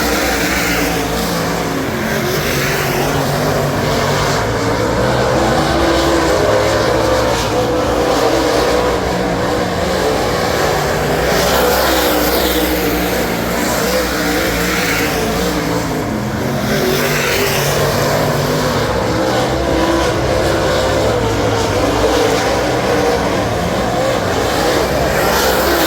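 Dirt super late model's Ford 422 cubic inch V8 running hard at racing speed, loud throughout, its revs swelling and easing every few seconds through the turns.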